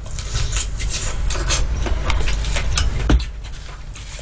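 Close-up chewing of a crisp sweet persimmon (dangam) slice: dense crunching and wet mouth clicks, with a low thump about three seconds in, after which it goes quieter.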